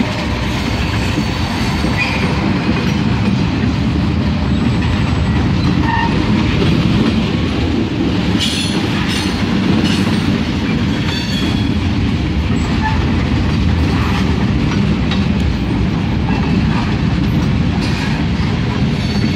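Freight train cars rolling past close by: a steady, loud rumble of steel wheels on the rails. Sharp clicks and clanks come from about eight to eleven seconds in and again near the end.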